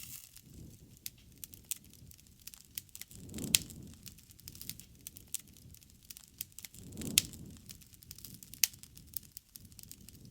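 Wood fire crackling: irregular sharp pops and snaps over a low rush of flame, with two louder surges, each with a loud snap, about three and a half and seven seconds in.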